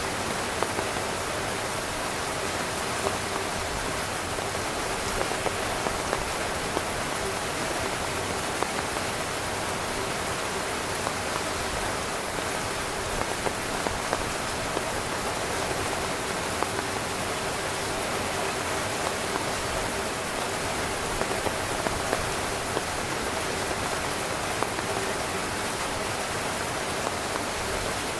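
Steady rain falling on a camping tent, a constant patter with occasional sharper drop hits.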